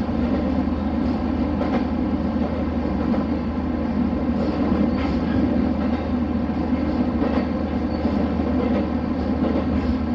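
Diesel railcar running along the track: a steady rumble of engine and wheels on rail, with a few faint clicks.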